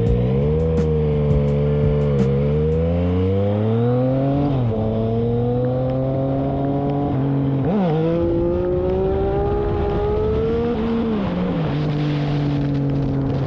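Motorcycle engine accelerating through the gears. The pitch climbs, drops sharply at each shift (twice), then falls and settles to a steady lower note near the end.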